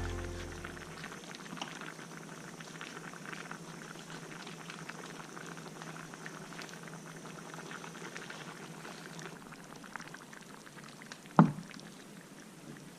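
Pot of chicken rice porridge bubbling and simmering over a campfire, a steady fine crackle of small pops. One sharp knock about eleven seconds in.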